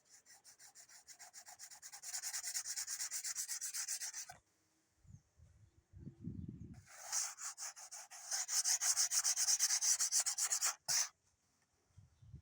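Hand sanding of wood with sandpaper: two runs of quick, even back-and-forth strokes, with a short pause and a few low knocks between them.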